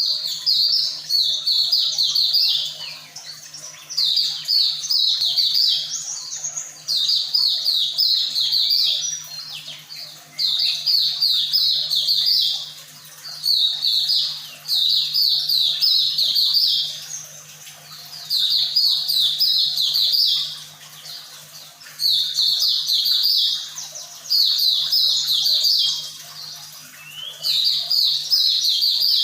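White-eye (Zosterops) singing: bursts of rapid, high twittering notes, each a second or two long, repeated about every two to three seconds.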